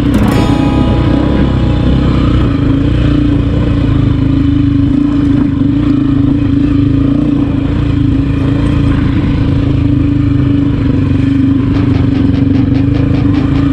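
Kawasaki KLR600 single-cylinder dual-sport motorcycle engine running steadily at a cruise, heard from on the bike. There is a brief clatter right at the start and a rapid rattle near the end.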